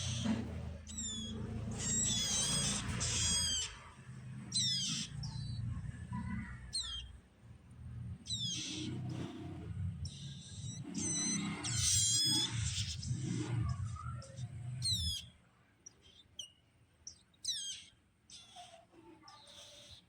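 Ciblek (prinia) nestlings giving high, quickly falling chirps in short clusters, the begging calls of chicks being hand-fed. Low rumbling handling noise runs under the calls and stops about three quarters of the way through.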